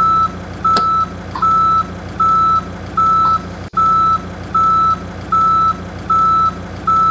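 Vehicle reversing alarm beeping: one steady high beep about every 0.8 seconds over a low, steady engine-like hum, starting abruptly.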